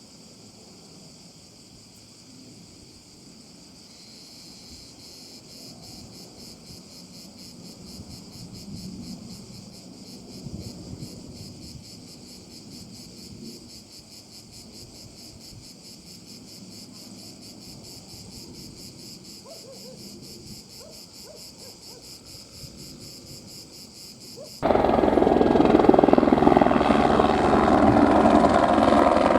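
High, rapidly pulsing chirr of insects over faint background noise. About 25 seconds in, the sound switches abruptly to the loud, close rotor and turbine noise of an Airbus AS350 helicopter.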